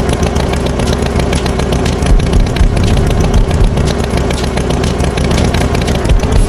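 Tractor engine running steadily, a loud rumble with rapid clatter.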